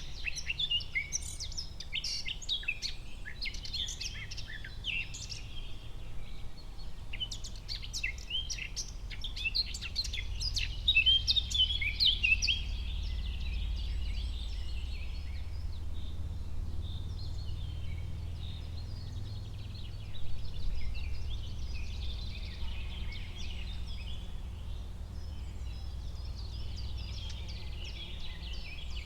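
Forest ambience: several birds chirping and singing in quick overlapping calls, busiest in the first dozen seconds and thinning out after, over a steady low rumble.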